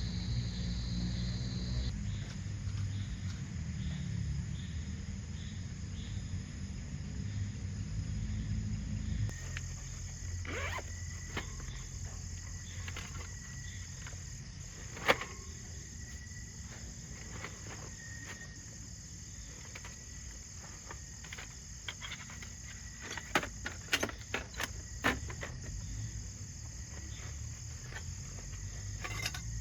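Steady high-pitched chorus of crickets and other insects, with scattered sharp clicks and knocks. A low rumble underneath stops abruptly about nine seconds in.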